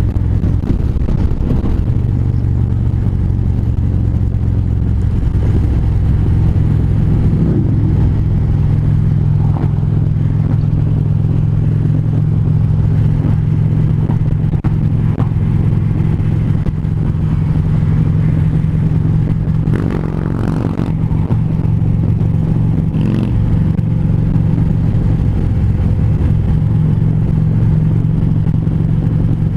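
Harley-Davidson V-twin motorcycle engine running steadily at highway cruising speed, with road and wind noise. The engine note shifts a little about seven seconds in, and something passes briefly around twenty seconds in.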